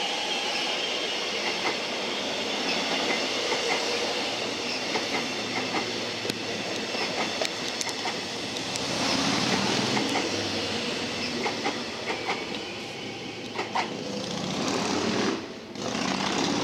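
Electric suburban passenger train passing through a station, its wheels clicking over the rail joints over a steady rumble that swells in the middle.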